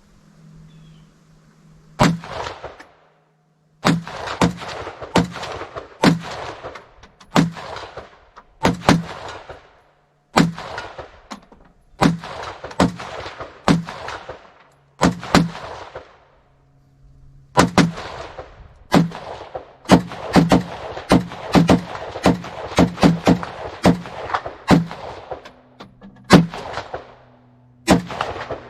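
AR-15 rifle fired semi-automatically: about thirty single shots in strings with short pauses, each with a brief ringing echo. The pace quickens to about two shots a second in the second half.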